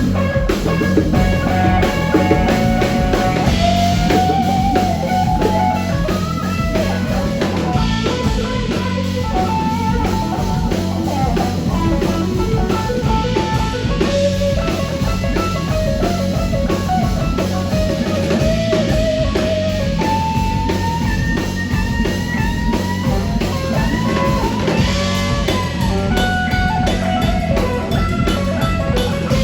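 Live band playing blues-rock: electric guitar over a drum kit, continuing steadily throughout.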